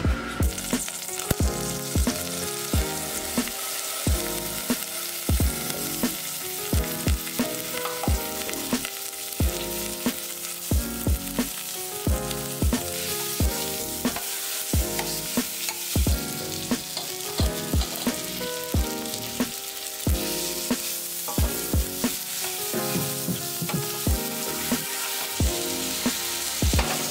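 Garlic, lemongrass, cilantro stems, onion and ginger frying in a little oil in a stainless steel saucepan, a steady sizzle that starts suddenly at the beginning, with a spoon stirring them. Background music with a steady beat plays underneath.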